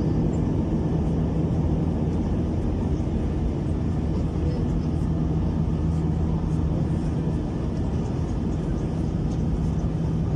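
Airbus A321-200 cabin noise heard from a passenger seat: a steady rumble of engines and airflow with a constant low hum, holding level throughout.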